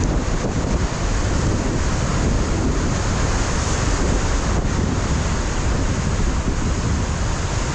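Ocean surf breaking against a rocky shore, a steady wash of wave noise, with wind buffeting the microphone and adding a low rumble.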